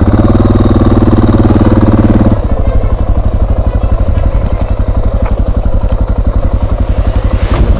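Single-cylinder dual-sport motorcycle engine running close by, held at raised revs for about two seconds, then dropping back to a lower, slower, even beat.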